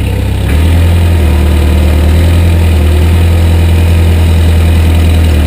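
Cat 428-B backhoe loader's diesel engine coming up in the first second, then running loud and steady at idle.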